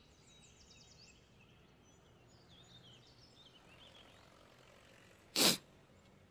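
Faint birds chirping in the background of a quiet room, with one short, loud rush of noise about five seconds in.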